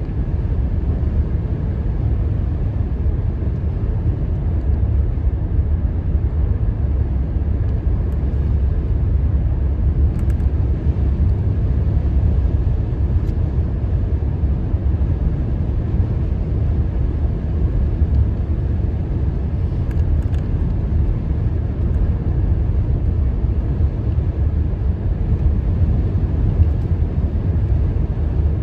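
Road and engine noise heard inside a truck's cabin while driving: a steady low rumble.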